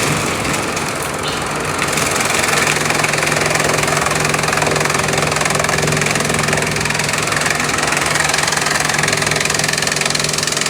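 Bamboo-chipping machinery running steadily: a continuous loud mechanical din over a steady low hum.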